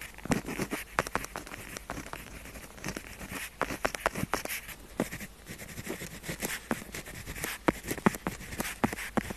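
Pen tip writing on paper: irregular scratchy strokes with many small sharp ticks as the nib meets and lifts from the page.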